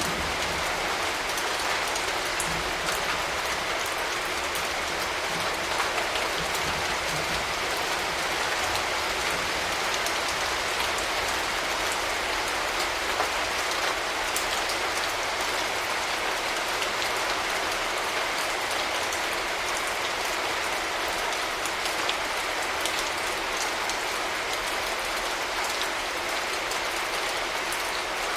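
Steady rain falling, with scattered drops ticking close by. A low thunder rumble fades out at the very start.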